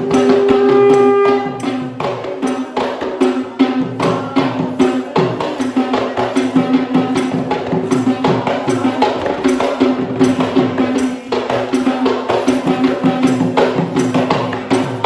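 Sri Lankan drumming for a Kandyan dance: fast, dense strokes on the geta bera drum with a jingling, rattling layer over a steady held low tone. A wind instrument holds a note for about the first second and a half.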